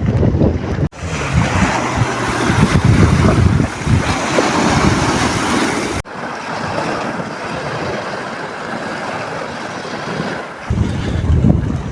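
Outdoor ambience: wind buffeting the microphone in gusts, then stretches of steady rushing noise, with abrupt changes about one and six seconds in where the recording is cut.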